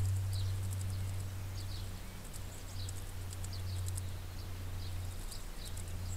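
Birds chirping in short, high notes and quick clicking calls, scattered throughout, over a steady low hum.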